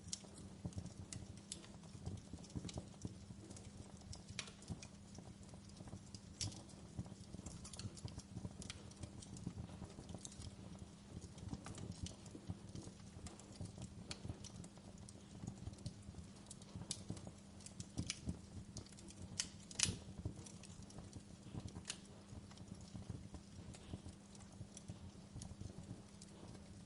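Wood fire crackling in a fireplace: a steady low rumble of the flames with irregular sharp pops and snaps, one louder snap about twenty seconds in.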